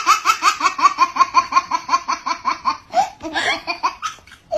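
High-pitched baby laughter in a quick, even run of 'ha-ha-ha' pulses. After about three seconds it breaks into a few looser giggles.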